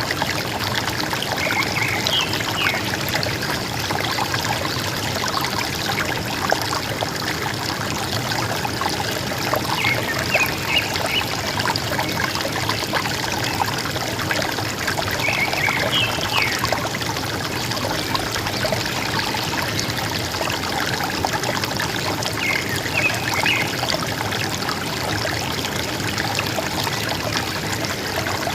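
River water flowing and trickling steadily, with forest birds giving short chirping phrases about four times, every six seconds or so.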